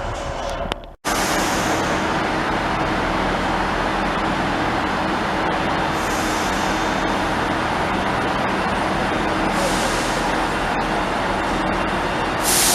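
A train running at a station platform: a steady mechanical drone with a faint engine hum, broken by short hisses of air about six, ten and twelve seconds in. The sound cuts out for an instant about a second in, then resumes.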